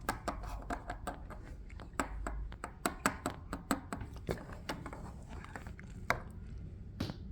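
Plastic Lego pieces clicking and tapping as they are handled and moved about: quick irregular clicks, thick in the first half and sparser later, with a couple of louder knocks near the end.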